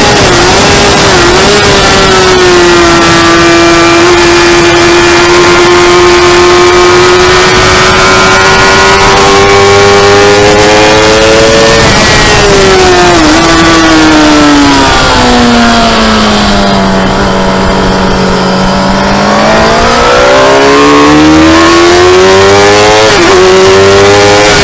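Motorcycle engine running hard at high revs over heavy wind rush. The pitch holds high with brief dips at gear changes, falls steeply about two-thirds of the way through, then climbs back up.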